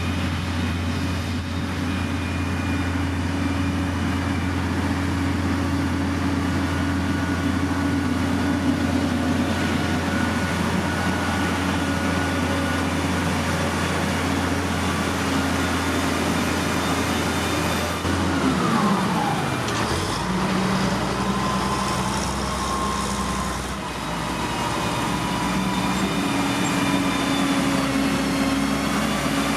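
Heavy construction machinery engines running steadily with a deep hum. About 18 seconds in the deep hum cuts out and the engine pitch glides down, then settles into a different steady drone.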